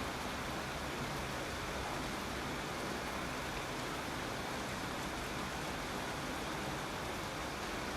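Steady rain falling, a continuous even hiss with no single drops standing out.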